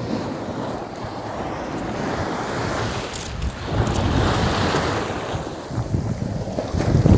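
Ocean surf washing on the beach, with wind buffeting the microphone. It swells louder about halfway through.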